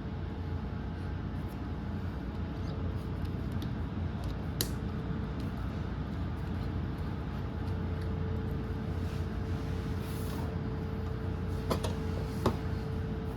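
Small electric drill running, its bit drilling into a rivet: a steady motor whine over a low hum, with a few sharp clicks.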